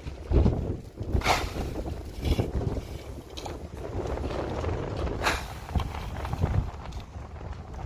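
Wind rumbling on the microphone, with three short scraping or rustling sounds about a second, two and a half seconds and five seconds in.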